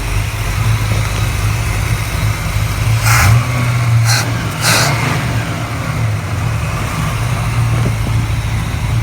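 Buick 455 V8 idling steadily, with three short rushes of noise about three, four and four and a half seconds in. The engine is running rich on a used Edelbrock carburetor that the owner is still adjusting.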